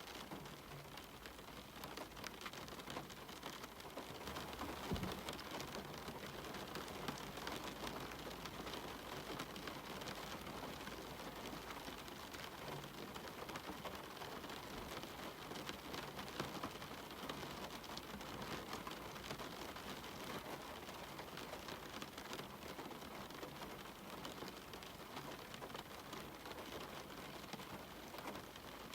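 Steady rain falling, with many separate drop hits ticking through the hiss. A low thump about five seconds in.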